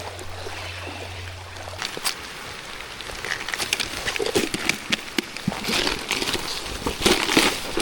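Water sloshing and splashing, growing busier after about two seconds, with irregular knocks and rustles and a louder surge near the end.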